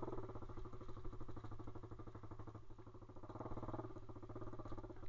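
Pit bike's single-cylinder engine running at a steady speed under the rider, with a rapid even firing beat.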